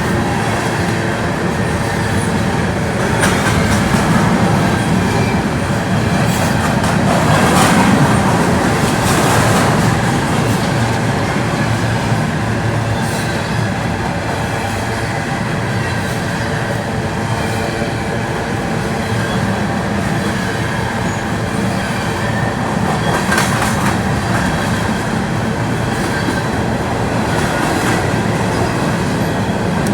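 Train rolling past at close range: a loud, steady clatter of wheels on rails that goes on without a break.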